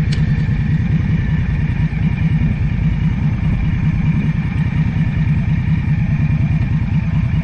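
A vehicle's engine running steadily: a continuous low, evenly pulsing rumble with a faint steady high tone over it.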